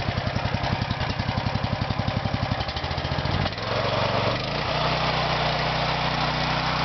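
Honda GX390 single-cylinder four-stroke small engine running: at first a slow idle with each firing pulse distinct, then about halfway through it speeds up and settles into a steady, faster run.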